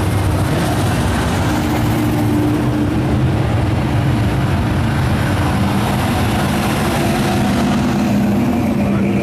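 Car engines running steadily at low revs, a continuous low engine sound with steady tones and no sharp changes.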